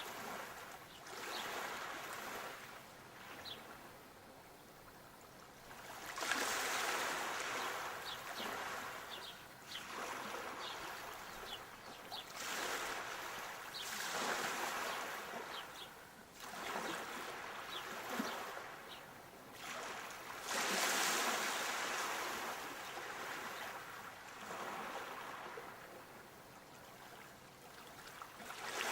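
Sea waves breaking and washing up the shore, a swelling hiss every few seconds with the fizz of the surf running back.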